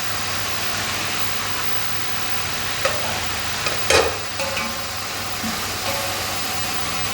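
Chicken and onions frying in hot oil in a cooking pot, a steady sizzle as the onions are lightly browned. Two short knocks come about three and four seconds in; the second is the louder.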